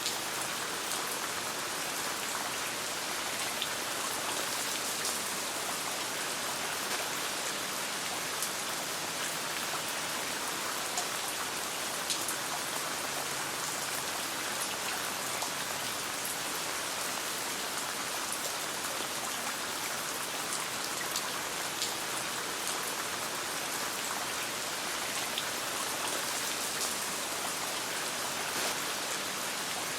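Steady rain pattering, with scattered sharp clicks of a crackling campfire mixed in.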